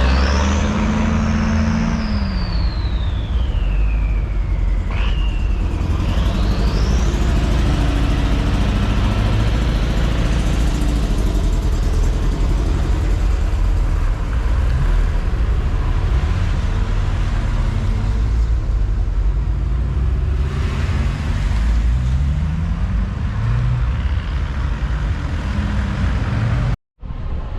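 Old vehicle engines running with a heavy low rumble. Over the first few seconds a high whistling tone falls steadily in pitch, then rises again. The sound cuts out briefly near the end.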